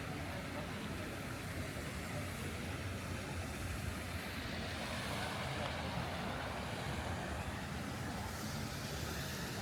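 Street traffic: a steady hum of cars on the road, with one vehicle swelling and fading as it passes near the middle.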